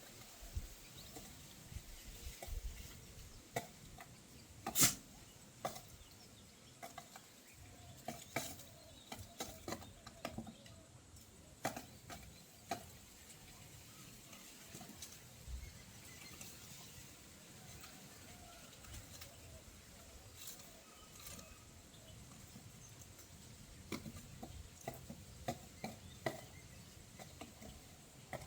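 Irregular light taps and clicks, with one sharper knock about five seconds in, from birds moving and pecking about.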